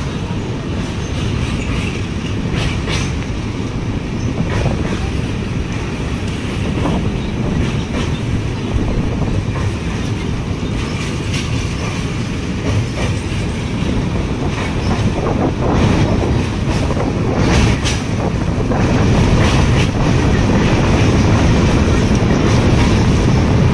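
Passenger train running at speed over a steel truss bridge, heard from on board: a steady rumble with wheels clacking over rail joints every few seconds. It gets louder for the last few seconds.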